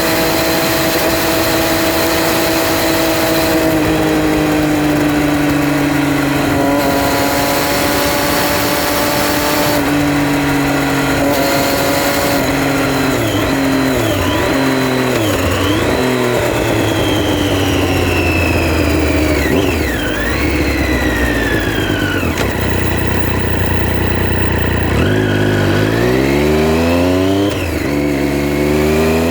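Triumph Street Triple R's 675 cc inline-three engine under way, holding steady revs with a couple of gear changes. About halfway through the revs fall away in wavering dips as the bike slows, settle low, then climb steeply as it accelerates, with an upshift near the end.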